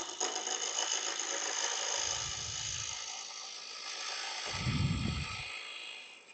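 A 1/2-inch bowl gouge cutting into a log spinning on a wood lathe, a steady scraping shave of wood that fades away near the end. Two low thuds sound underneath.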